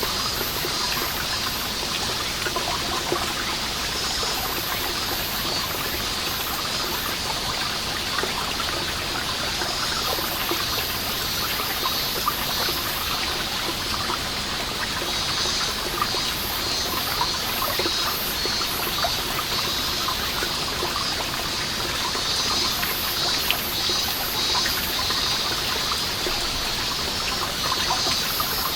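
Water seeping from a moss-covered wall and falling as many drops, a dense, steady pattering and trickling. Cicadas call over it in runs of short, high-pitched pulses that come and go.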